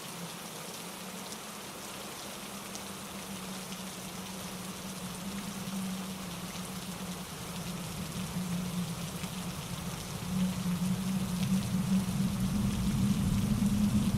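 Steady rain pattering on leaves and rocks, mixed with a rushing mountain stream and wind in the trees; a low rumble swells and the whole grows louder about ten seconds in.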